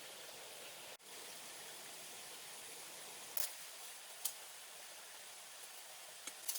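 Steady hissing background noise, broken by a few sharp clicks: two in the middle and a short cluster near the end.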